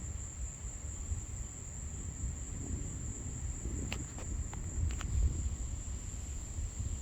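Insects, likely crickets, trilling in a steady high-pitched drone over a low rumble, with a few faint clicks about four to five seconds in.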